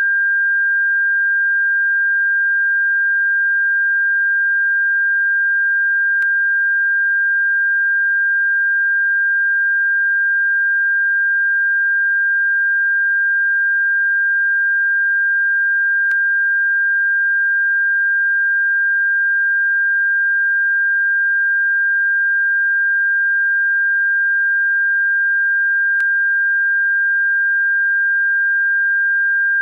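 Electronic pure tone, a single steady pitch of about 1.6 kHz at constant loudness, played as a bird-repellent frequency. Faint ticks come about every ten seconds.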